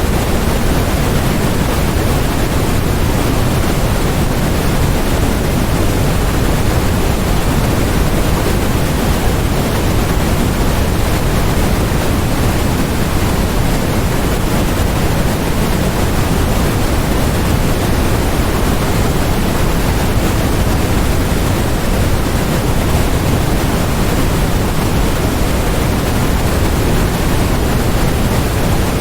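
Steady, unchanging generated noise: an even hiss and rumble, heavier in the low end than the top.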